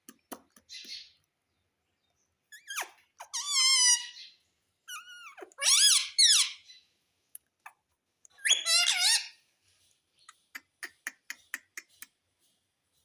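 Indian ringneck parrot calling: several high, warbling screeches with a wavering pitch, then a quick run of short, soft clicks near the end.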